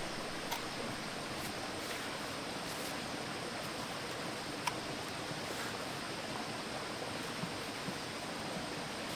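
Steady rushing ambient noise with a few faint sharp clicks, one about half a second in and one near the middle.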